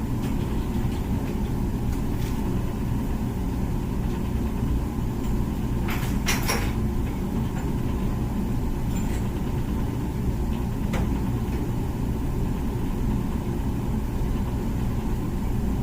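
Comfee dishwasher running its wash cycle: a steady low rumble of the wash pump and spraying water, with a brief rattle about six seconds in.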